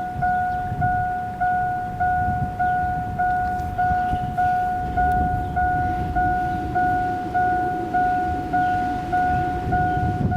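An electronic warning chime repeating on a single steady note, nearly two chimes a second, each one fading before the next, over a low rumble of wind noise.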